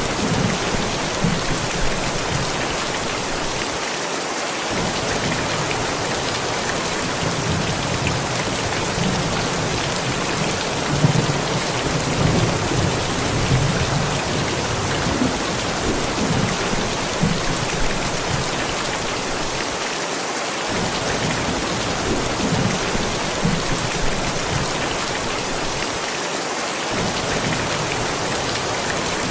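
Steady rain falling, with low rumbles of thunder coming and going underneath.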